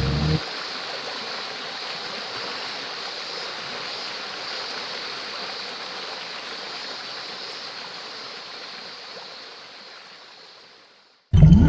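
Rushing water of a stream, a steady hiss that fades out over the last couple of seconds.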